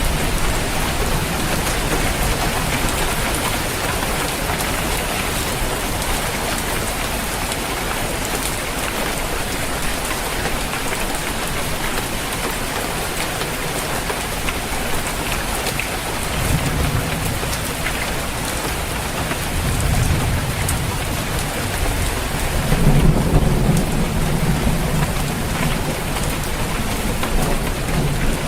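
Steady rain falling on a roof, with low rumbles of thunder rolling in during the second half, the loudest a few seconds before the end.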